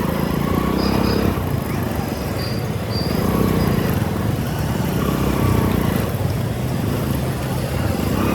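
Motorcycle engine running while riding, under steady wind and road noise.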